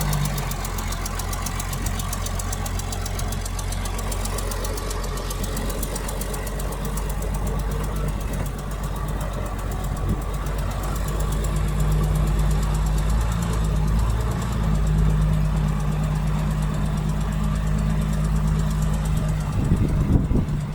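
Heavy diesel engine of an earthmoving machine running steadily, with a fast, even clatter and a deep hum.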